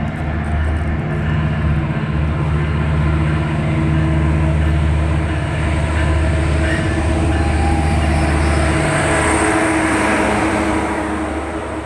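Metrolink diesel commuter train arriving: a steady low diesel engine hum that drops away about nine seconds in, as a rush of wheel-on-rail noise swells and then eases near the end.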